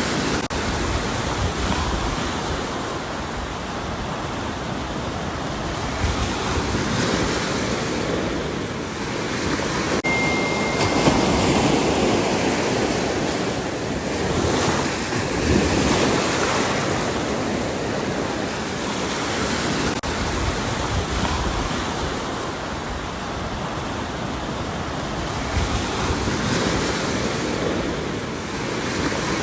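Ocean surf: waves breaking and washing up the shore, the rush of water swelling and easing every few seconds.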